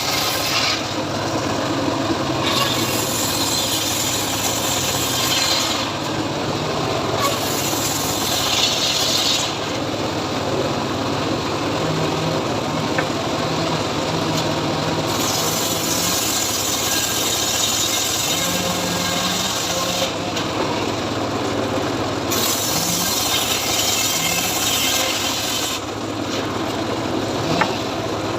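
Home-built sawmill sawing teak: a steady engine-driven drone with the blade's high hissing cut coming and going in stretches of a few seconds.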